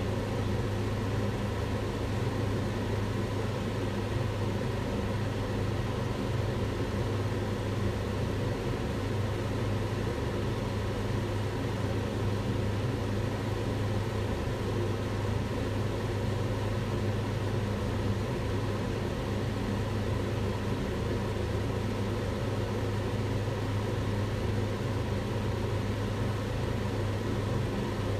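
Kitchen range hood's extractor fan running steadily: an even rushing noise over a strong low hum.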